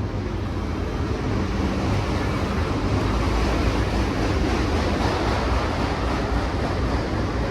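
Long CSX freight train rolling past, the steady rumble and roar of its cars' wheels on the rails, swelling slightly a few seconds in.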